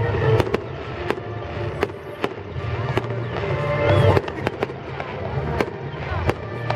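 Fireworks display: a fast, irregular run of sharp bangs and crackles from bursting shells, some close together, over a steady rumble.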